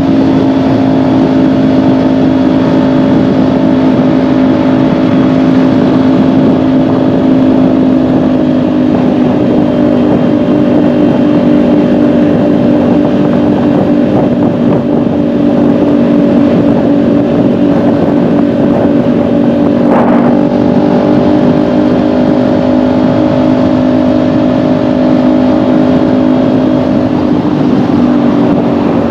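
Kawasaki Ninja 400's parallel-twin engine running at an even, steady pitch while the motorcycle cruises, heard from the rider's seat. A single sharp click sounds about twenty seconds in.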